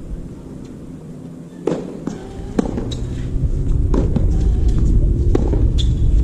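Tennis rally: several sharp pops of the ball coming off racket strings and bouncing on the court, about a second apart, over a low rumble that grows louder about three seconds in.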